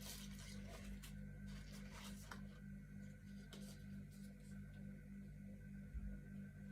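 Faint rustling and scratching of things being handled, in short bursts during the first couple of seconds and then sparser, over a steady low electrical hum.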